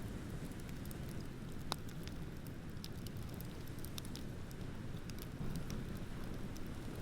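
Beach bonfire crackling: scattered sharp pops and snaps over a steady low rumble, with one louder pop a little under two seconds in.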